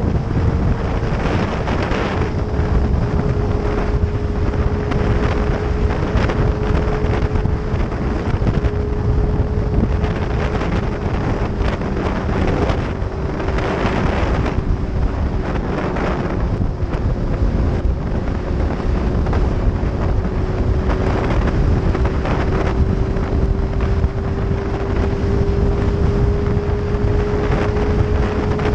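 Motorcycle riding at a steady cruising speed, its engine holding a nearly constant note, under heavy wind buffeting on the microphone.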